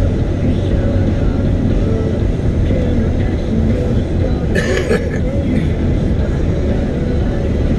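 Steady low rumble of a car driving, its engine and tyre noise heard from inside the cabin, with a brief higher noise a little past halfway.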